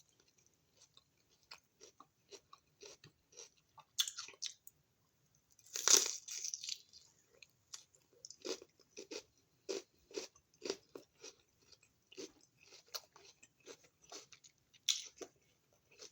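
Close-up mouth sounds of biting into and chewing a crunchy raw vegetable snack: a few sharp crunching bites, the loudest about six seconds in, and steady chewing crunches about two a second.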